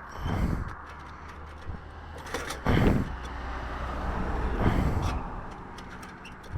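Road traffic: a steady low rumble, with three short louder bursts of noise and a vehicle swelling past near the middle.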